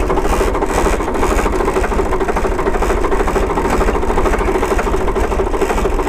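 Tractor diesel engine running steadily at idle while its hydraulic lift is raised by pressing the draft controller, which shows the controller is working.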